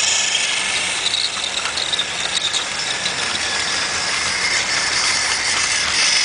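Battery-powered toy Thomas train running: its small motor gives a steady high whir, with a few faint clicks from the train on its track.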